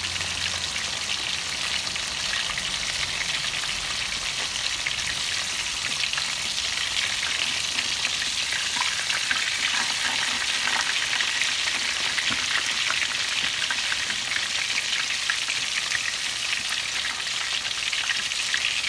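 Flour-coated chicken thighs deep-frying in hot vegetable oil in a pan, a steady dense sizzling crackle.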